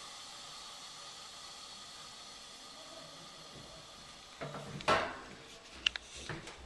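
Faint steady hiss, then a few knocks and clinks as the porcelain toilet tank and its parts are handled, starting about four and a half seconds in, with the loudest knock near five seconds.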